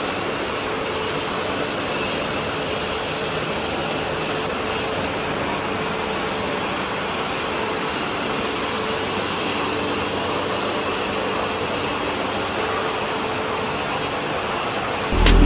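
Diamond wire saw running steadily, its wire cutting through stone or concrete with a constant grinding hiss and a faint steady hum. Music cuts in at the very end.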